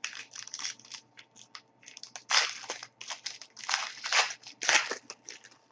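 A hockey card pack's wrapper being opened: an irregular run of crinkling and crackling, loudest in the middle few seconds.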